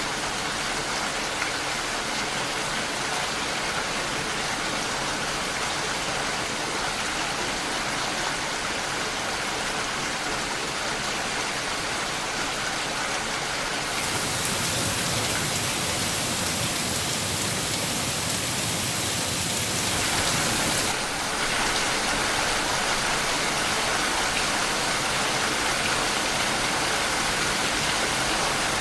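Steady rain falling, a dense continuous patter. About halfway through it turns heavier and hissier for roughly seven seconds, then drops back suddenly to the earlier level.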